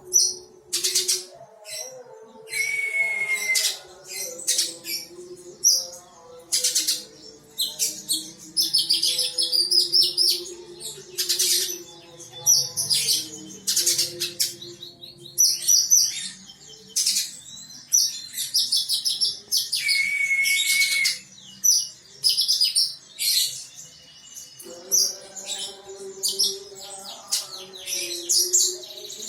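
A caged kolibri ninja sunbird singing persistently: bursts of rapid, sharp, high chirps and short trills, repeated with brief pauses throughout. A lower, sustained melodic sound runs underneath.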